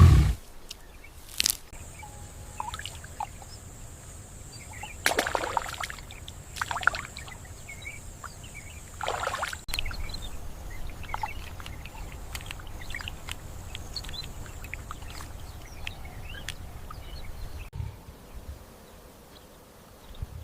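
Outdoor natural ambience: a steady high-pitched insect buzz for most of the first three-quarters, scattered small bird chirps, and three louder brief noisy swishes around the middle, over a low rumble. A loud low roar dies away at the very start.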